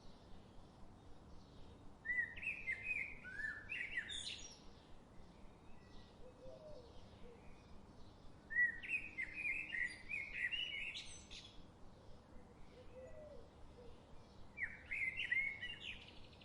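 A songbird singing three phrases of quick warbled notes, a few seconds apart, each ending in a sharply rising high note. Other birds chirp faintly in the background.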